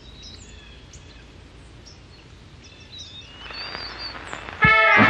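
Birds chirping over a steady outdoor ambience, the background noise swelling over the last couple of seconds. Near the end, loud music cuts in suddenly.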